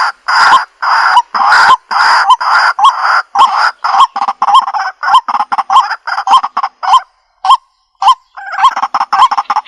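White-breasted waterhen calling, a loud repeated croaking 'kuwak' note. The calls come about two a second at first, then faster, break off for about a second and a half late on, and start again densely.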